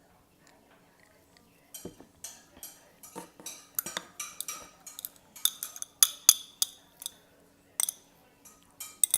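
Eating utensils clinking and tapping against a bowl while ramen is eaten: a quick run of short sharp clinks that starts about two seconds in and is loudest around the middle.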